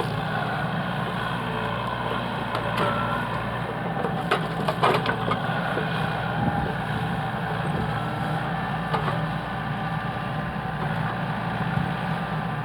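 A heavy machine's engine running steadily while felled logs are handled, with a few sharp wood cracks and knocks, the loudest cluster about four to five seconds in.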